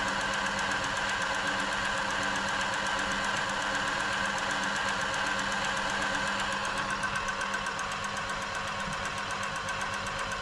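Pfaff-built Silver 1139 domestic sewing machine running steadily at speed, freshly oiled and sounding smooth. It eases off a little in the last few seconds.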